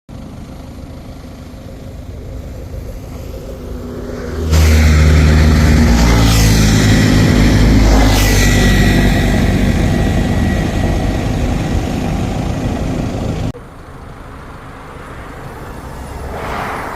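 DJI Avata 2 FPV drone's motors and propellers running with wind rush: a steady lower hum at first, suddenly much louder about four and a half seconds in as the throttle goes up, with the pitch shifting in steps and two rushing sweeps, then dropping back to a lower level near the end.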